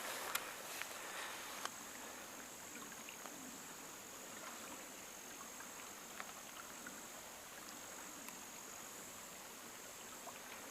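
A steady, high-pitched insect drone over the faint sound of running water from a small stream. A few sharp clicks come in the first couple of seconds.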